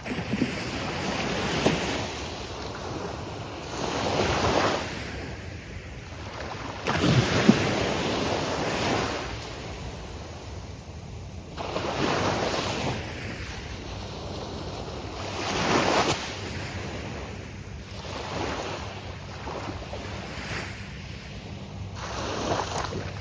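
Gulf of Mexico surf breaking on a sandy beach: about six waves crash in turn, each a swelling rush of noise that fades back, roughly one every three to four seconds. The loudest break comes about seven seconds in.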